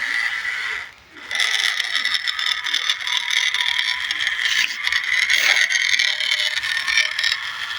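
Remote-control New Holland toy tractor's small electric motor and plastic gearbox whining as it drives, cutting out briefly about a second in and then starting again.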